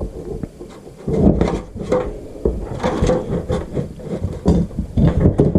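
Irregular knocks, clicks and scraping of hand tools and metal parts being handled on a motorcycle cylinder head, as a valve spring compressor is worked to fit a valve's keepers.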